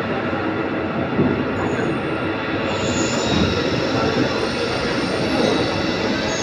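CNC lathe running in a machine shop: a steady mechanical rumble with a few short, faint high-pitched squeals.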